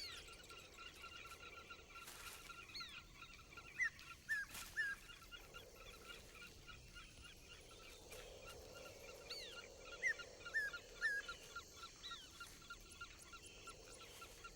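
Faint bird calls: short downward-slurred chirps, often in twos or threes, repeating every second or two over a thin steady high tone.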